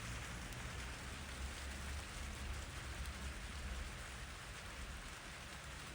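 Steady rain falling, with wind blowing through trees as a low rumble underneath.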